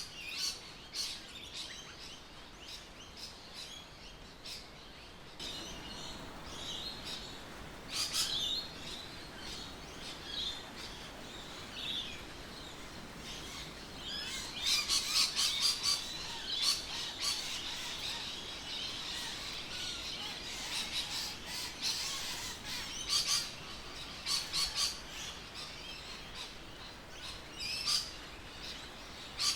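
Birds chirping and calling, with bursts of quick chirps about halfway through and again near the end.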